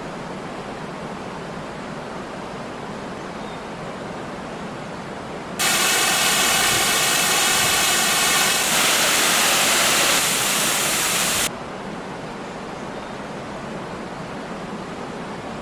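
Steady rushing of a waterfall. About five and a half seconds in, a much louder, hissier rush of water cuts in abruptly and stops just as suddenly about six seconds later.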